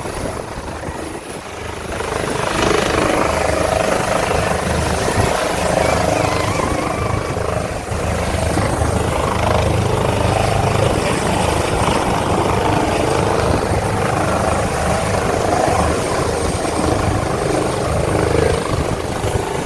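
Air ambulance helicopter taking off at close range: the rotor beat and turbine engine noise grow louder about two seconds in, then hold steady and loud.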